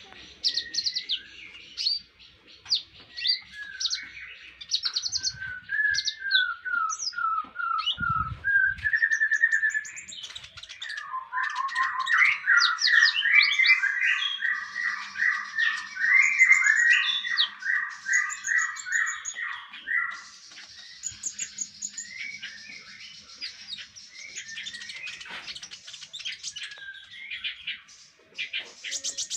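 Konin songbird singing: a varied run of bright chirps and whistles, with a long fast series of repeated notes lasting several seconds about a third of the way in. It is a masteran, a tutor song played for captive songbirds to copy.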